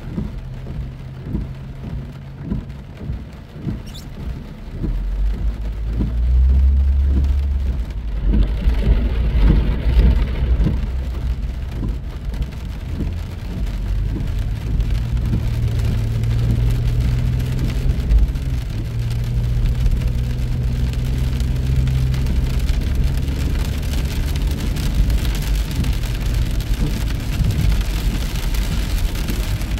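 Rain falling during a drive on a wet highway: a steady hiss of rain and wet road noise, with a low vehicle rumble and engine hum that grows louder about five seconds in.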